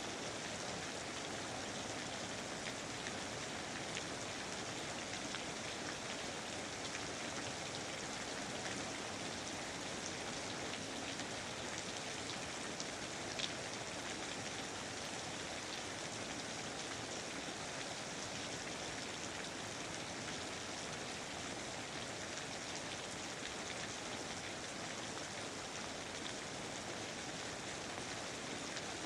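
Steady rain falling in a rainforest, an even hiss with many small drops ticking on surfaces and one slightly louder drop about halfway through.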